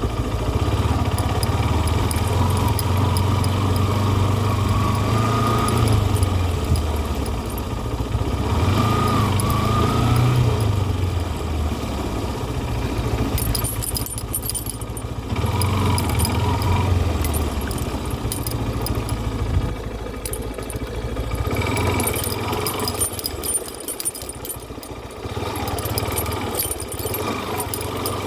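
An engine running, its pitch rising and falling several times as the revs change, then settling lower and quieter in the second half.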